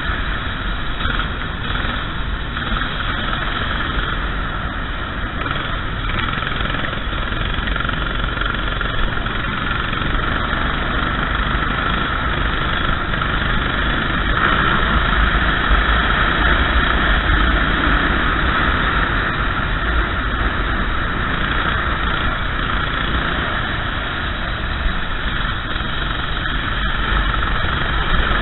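Racing kart engine running continuously at a fairly even pitch, with a heavy low rumble beneath it.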